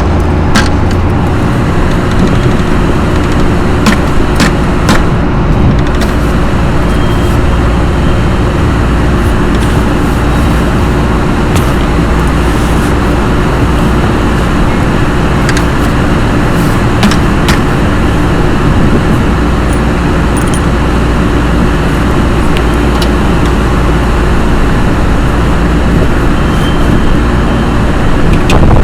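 Loren Cook 100 ACEM centrifugal roof exhaust fan running steadily on its new motor at the higher speed, a loud, even hum and rush with a few faint clicks.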